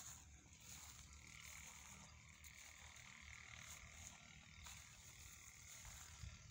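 Near silence: faint outdoor ambience with a low rumble and a steady high hiss, and a faint drawn-out sound in the middle.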